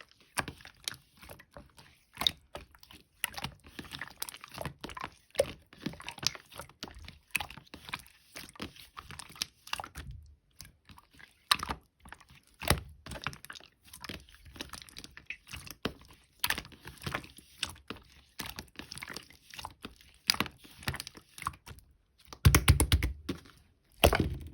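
Clear slime being squished and pressed by hand, making a constant string of small sticky clicks, pops and crackles. A louder, denser run of squelching comes near the end.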